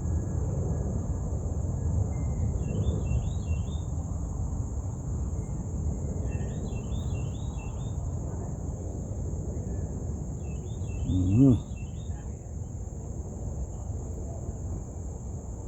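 A bird calling three times, each call a short run of quick repeated notes, over a steady low outdoor rumble and a thin constant high hiss. A brief loud voice sound comes about eleven seconds in.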